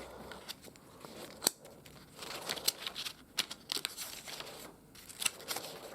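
Pages of a paperback comic book being turned and handled: scattered papery rustles and small clicks, with one sharper snap about a second and a half in.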